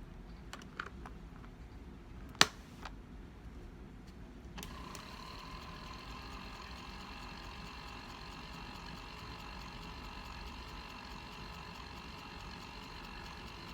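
Small electric motor of a beauty-blender mini washing machine starting up about a third of the way in, then spinning with a steady whine. A single sharp click shortly before it starts is the loudest sound.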